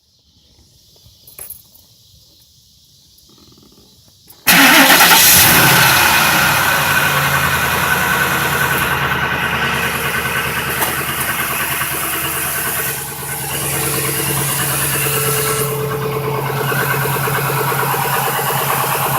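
Quiet at first, then a 2002 Ford F-150's 5.4-litre Triton two-valve V8 starts suddenly about four and a half seconds in and settles into a steady idle. It carries an engine knock that unplugging each injector and each coil in turn does not change.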